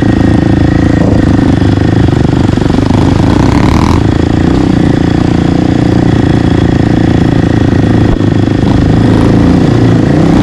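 Dirt bike engine running loud and close, with the revs rising briefly about three to four seconds in.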